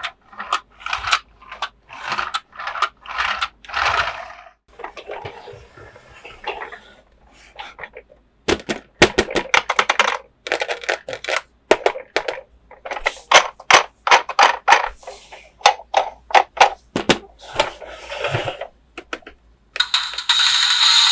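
Plastic toy parts and packaging being handled: bursts of rustling and crinkling, then a quick run of sharp plastic clicks and snaps. Music starts near the end.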